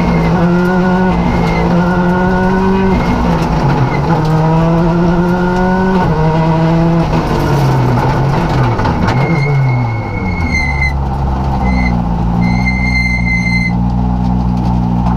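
Rally car engine heard from inside the cabin, accelerating hard: its pitch climbs and drops back with each of three upshifts. Then it winds down as the car slows, settling into a steady idle. Near the end, a high electronic beep sounds three times, once long, once short, once long.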